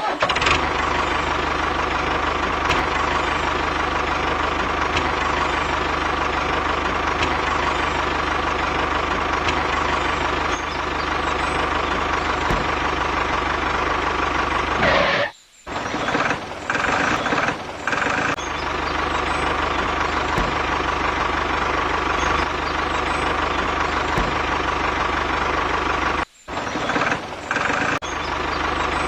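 Small electric motor of a DIY mini tractor running steadily with a constant whine. It cuts out abruptly twice, about halfway through and near the end, and comes back in a few short stop-start spurts each time.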